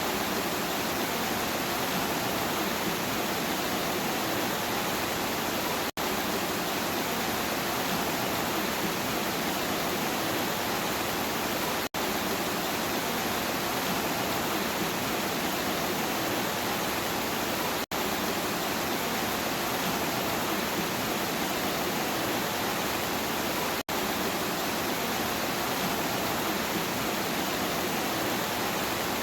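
Steady, even hiss of heavy rainfall, broken by a very brief dropout about every six seconds.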